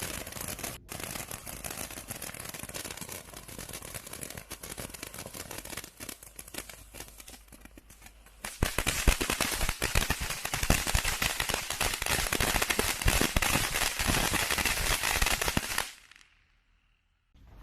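Spinning firework fountain (Twilight Tornado) burning with a dense rapid crackle that gets much louder about halfway through, then cuts off near the end.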